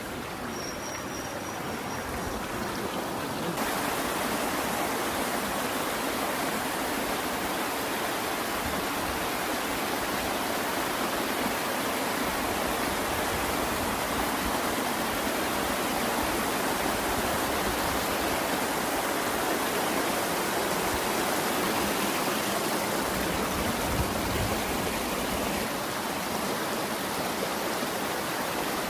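Steady rush of flowing water from a waterfall and its stream, growing louder over the first few seconds and then holding level.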